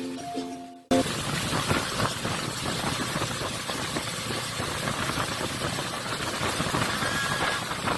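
Ukulele music stops about a second in. It is followed by a steady, rough engine running.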